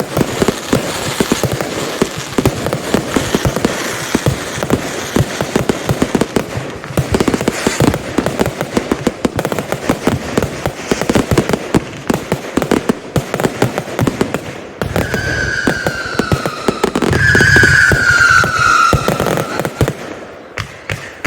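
Consumer fireworks going off in a dense, rapid barrage of bangs and crackle. Twice, from about three quarters of the way in, a whistle-like tone slides downward over the bangs before the barrage dies away near the end.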